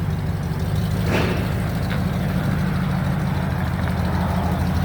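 A steady low mechanical rumble like an idling engine, with a short hiss about a second in.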